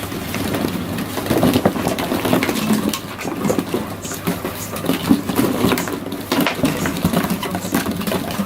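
Six-week-old wolfdog puppies moving about and playing: a busy run of scuffling, small knocks and clicks.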